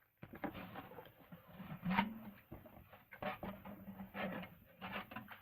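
Handling noise: a run of rustles and light clicks and taps as craft supplies and their packaging are moved about by hand.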